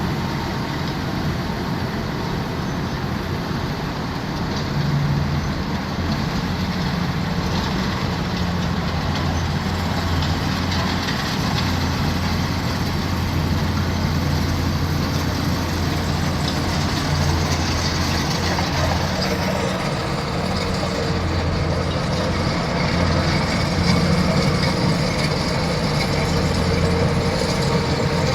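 A heavy machine's engine running steadily with a continuous low hum.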